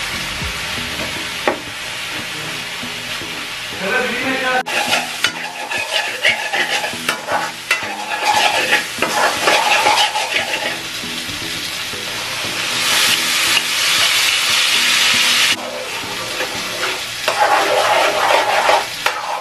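Sliced bitter gourd frying in oil in a nonstick pan, sizzling steadily while a spatula stirs and scrapes through it. The sizzle swells in several stretches as the food is turned.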